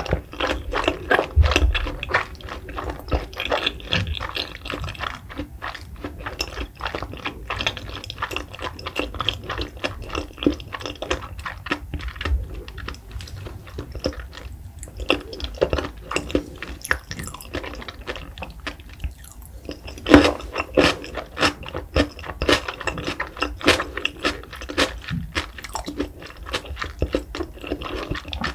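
Close-miked wet chewing of raw salmon: a dense run of small mouth clicks and smacks. It thins briefly around the middle and is loudest about two-thirds through.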